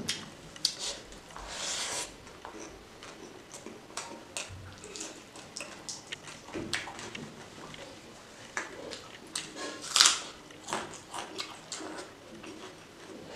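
Close-miked chewing of pork and rice eaten by hand: wet mouth clicks, smacking and squishy bites in an uneven run, with one louder burst of noise about ten seconds in.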